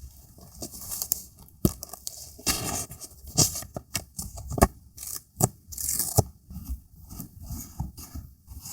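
Paper and stickers being handled for scrapbook journaling: rustling, scraping and peeling, broken by sharp clicks and taps.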